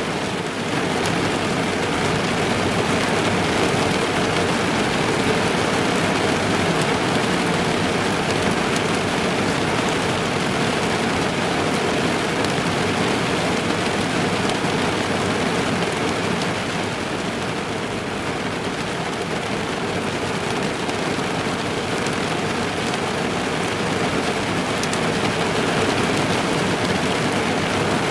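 Steady rain falling on a car's roof and windows, heard from inside the car: a dense even patter with scattered individual drop ticks, easing slightly past the middle.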